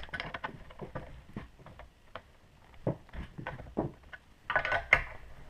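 Scattered light metallic clicks and taps at irregular spacing, with a small cluster near the end, from bolts being hand-tightened and driven with a nut driver into an air compressor's cylinder head.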